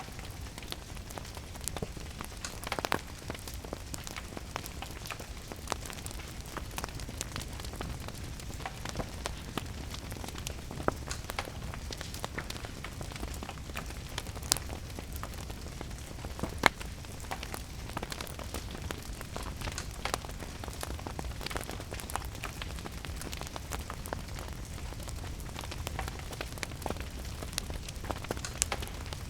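Wood fire crackling with scattered sharp pops, a few louder than the rest, over steady rain.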